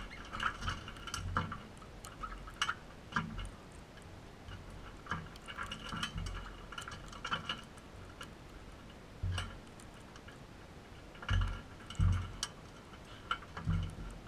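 Crimson rosellas giving short, soft chattering calls with scattered clicks, and a few dull low thumps.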